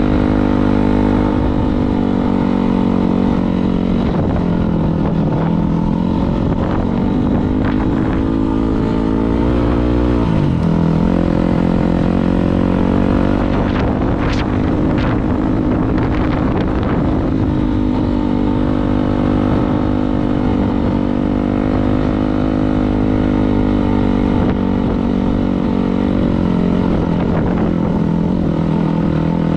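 Dirt bike engine running loud and fairly steady, its pitch dipping briefly about ten seconds in and then coming back up. A few sharp clicks or knocks sound about halfway through.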